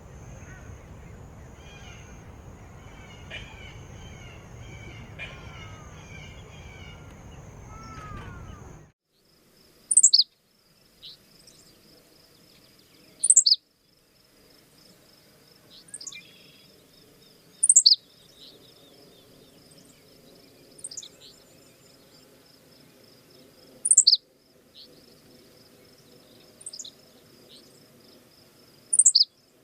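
Wild birds calling over steady background noise, with a steady high whine. About nine seconds in, the sound cuts to a single kind of bird giving a loud, sharp call that sweeps down in pitch, repeated six times, every three to six seconds.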